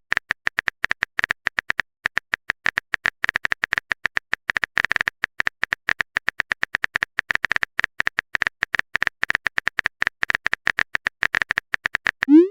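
Rapid clicking of a keyboard typing sound effect, irregular, about eight to ten clicks a second. A short rising swoosh comes just before the end.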